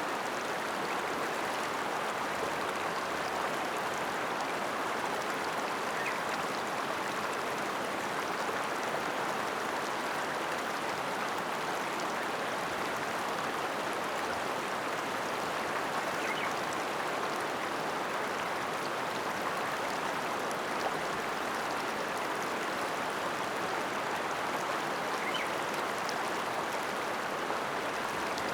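Ōta River water flowing in a steady, even rush.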